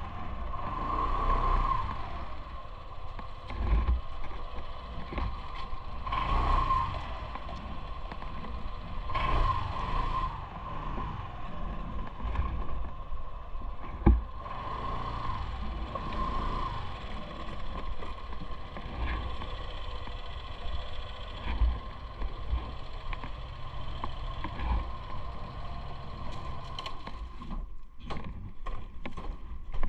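Bicycle on the move: a steady rush of tyre and wind noise with low thumps, under a faint steady whine. There is a single sharp knock about halfway through and a run of light clicks near the end.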